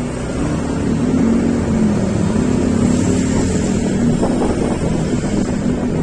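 A vehicle engine running with a steady low hum while wind buffets the microphone.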